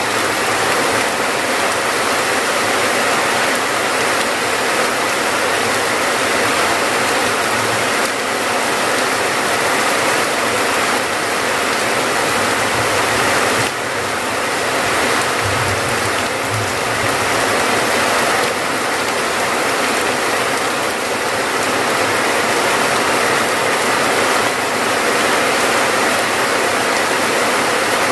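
Steady rain falling, an even, dense hiss of drops that holds at one level throughout.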